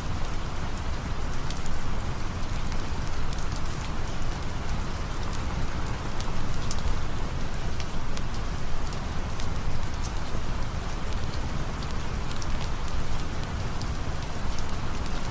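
Steady rain falling, with a low rumble underneath and many scattered sharp ticks of drops.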